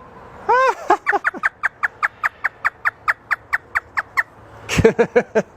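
African grey parrot imitating a hysterical laugh: a rapid run of short notes, each falling in pitch, about five or six a second for around three seconds. A short, louder burst follows near the end.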